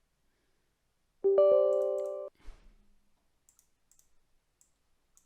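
A short Windows system alert chime, a chord of several steady tones that starts sharply about a second in and cuts off about a second later, followed by a few faint mouse clicks.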